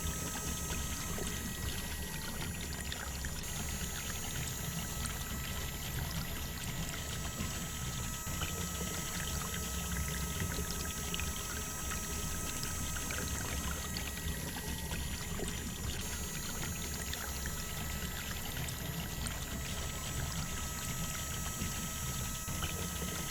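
Water pouring steadily from a small DIY water pump, with a low hum underneath.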